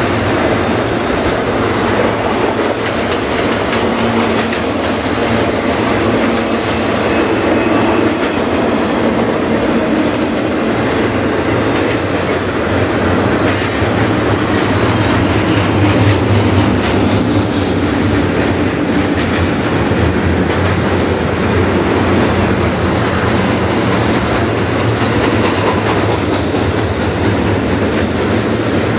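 Double-stack container train's well cars rolling past, a steady rumble and clatter of steel wheels on the rails.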